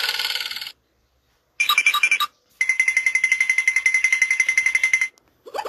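Cartoon sound effects of a bell ringing rapidly in separate takes: one ring cuts off just under a second in, a short ring follows, then a longer steady ring lasting about two and a half seconds. Near the end a rising, warbling glide effect begins.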